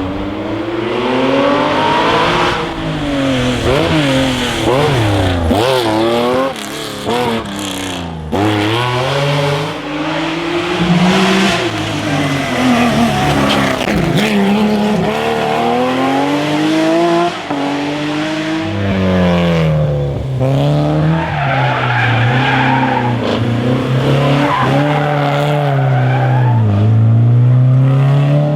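Historic rally car engine at full throttle, the revs climbing and dropping again and again through gear changes and braking for corners, with brief lifts off the throttle.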